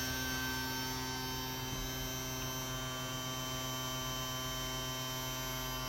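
Vacuum cleaner motor running with a steady, even hum that does not change.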